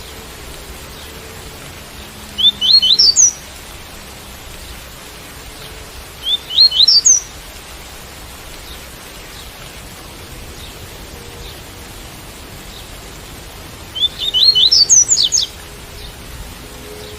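Double-collared seedeater (coleiro) singing its tui-tui song: three short phrases of quick rising notes, the last the longest, over a steady hiss of rain.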